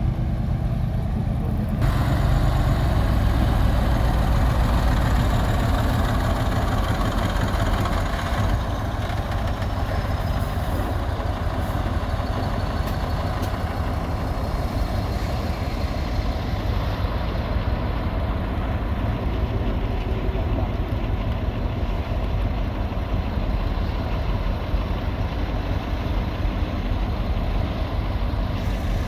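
Heavy diesel earthmoving machinery running with a deep, steady engine rumble, which swells slightly about two seconds in.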